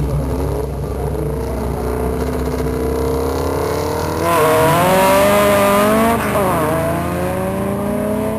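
Two drag cars, an air-cooled VW Beetle and a larger sedan, running at the start line, then launching about four seconds in: the engines get suddenly louder and climb in pitch, drop briefly at a gear change about two seconds later, and climb again as the cars pull away down the strip.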